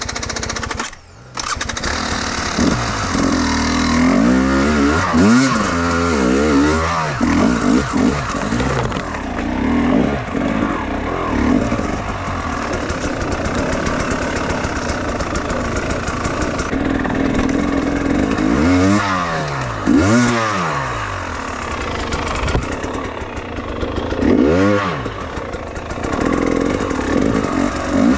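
Enduro motorcycle engine running, briefly cutting out about a second in, then revved up and down several times: a burst of revs around five to seven seconds in, and again near twenty and twenty-five seconds.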